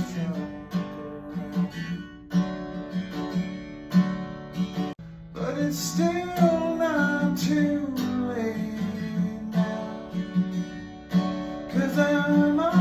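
Acoustic guitar strummed in a steady rhythm, with a sung vocal line gliding over it from about halfway through.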